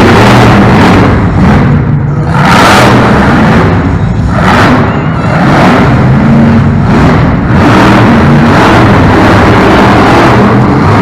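Monster truck engine revving hard on and off throttle in repeated surges, easing off briefly about every two to three seconds. Very loud throughout.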